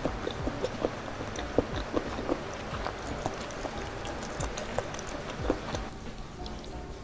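Close-miked wet chewing and mouth smacks of a person eating spicy boneless chicken feet, with irregular soft clicks throughout.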